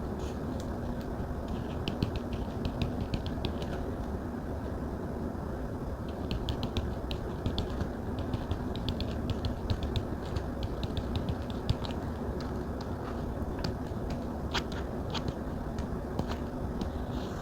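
Plastic stylus tip tapping on a Samsung Galaxy Tab touchscreen in quick runs of light clicks, with a few louder taps near the end. Under it is a steady low background hum.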